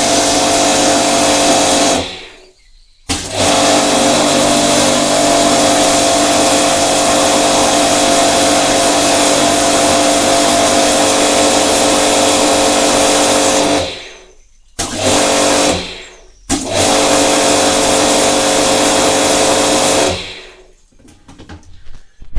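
Ryobi electric pressure washer's motor and pump running with a steady tone, then cutting out and starting again three times before stopping near the end as the total-stop pressure switch switches it off and on. Its high-pressure valves are damaged, so it does not build the pressure it should.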